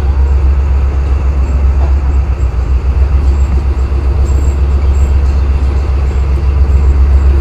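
Passenger train coach rolling slowly out of a station, a steady low rumble of its wheels on the track, heard from the open doorway.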